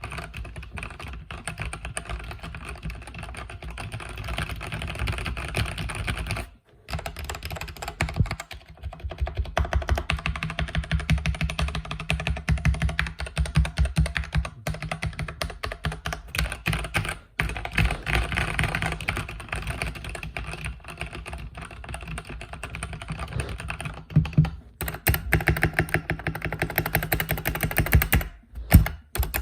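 Fast continuous typing on a mechanical keyboard with linear red switches: a rapid run of key clicks and bottom-out clacks, with a few short pauses.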